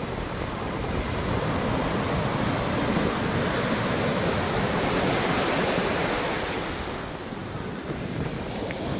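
Sea surf on a beach: a wave breaks and washes in, the rush of water swelling to a peak mid-way and easing off near the end.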